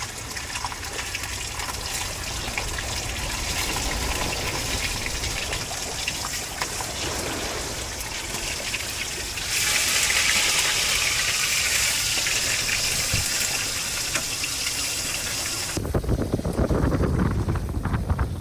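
Water gushing and splashing as a steady rush. About halfway through it turns abruptly into a louder, higher hiss, then near the end drops just as suddenly to a lower, uneven rushing.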